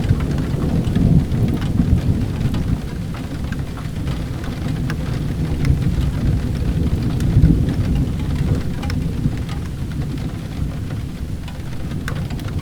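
Steady rain with a low rumble of thunder underneath, swelling and easing slightly. Scattered small sharp crackles, from a wood fire crackling in a fireplace, run through it.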